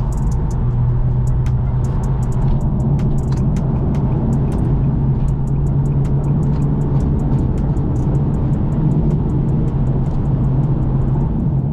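Car driving at a steady speed: a steady low engine drone under road noise.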